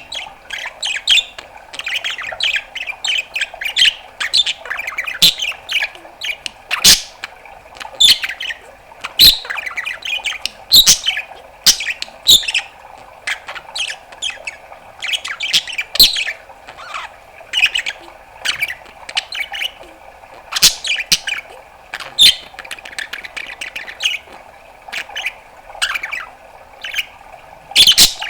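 Budgerigar chattering: a running warble broken by frequent sharp chirps and clicks, several a second, with louder squawk-like chirps every second or two.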